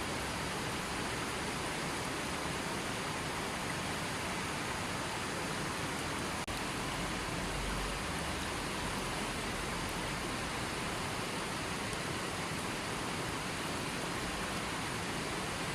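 Steady, even hiss of falling water, with a momentary dip about six and a half seconds in.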